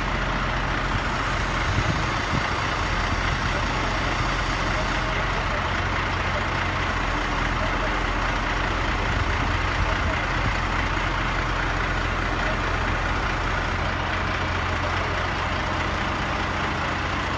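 A heavy vehicle engine running steadily at idle, with a constant low hum under a broad even noise.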